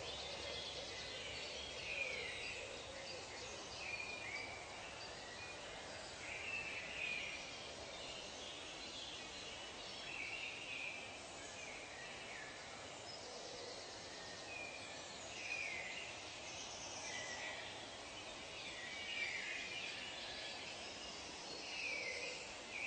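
Wild birds calling: short, sweeping chirps and whistles every second or so over a steady background hiss.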